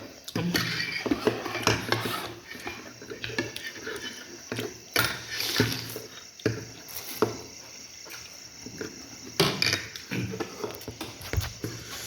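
Spoon and utensils clinking and knocking against a bowl while eating noodle soup: scattered short clinks, some louder than others.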